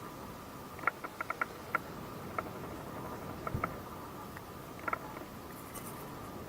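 Scattered short, high chirps from a small animal in long grass, singly and in quick runs of three or four, over a faint steady high tone.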